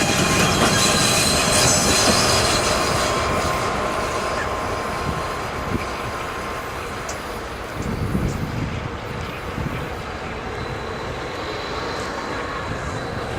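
Train rolling past on the rails, its wheels squealing in thin high tones over the rumble during the first few seconds. The sound then slowly fades as the train moves away.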